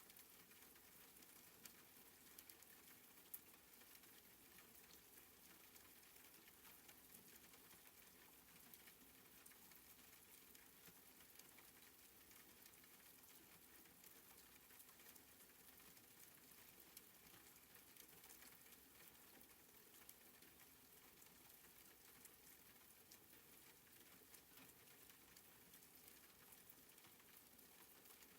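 Faint, soft rain falling steadily, with scattered light drop ticks.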